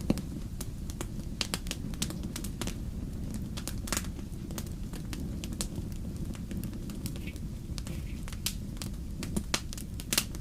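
Wood fire crackling, with sharp irregular pops and snaps over a steady low rumble.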